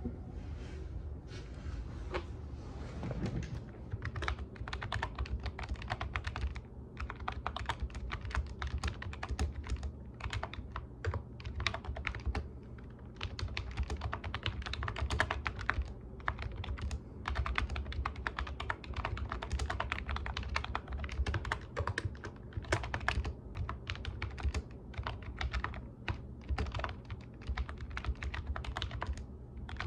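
Typing on a computer keyboard: fast, uneven runs of keystroke clicks with short pauses between them, sparse at first and steady from about four seconds in. A low steady hum runs underneath.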